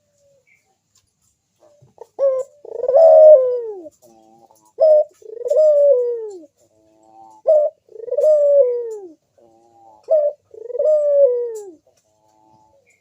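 Crossbred puter (domestic ringneck dove) cooing: four calls about two and a half seconds apart, starting about two seconds in. Each is a short clipped note followed by a longer coo that rises slightly and then falls away.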